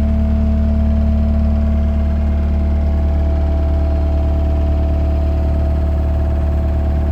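2015 Gehl V330 skid steer's diesel engine idling steadily.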